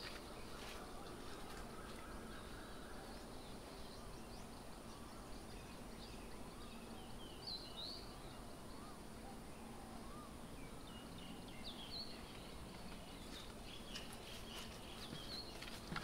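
Faint outdoor background with scattered distant bird chirps and calls.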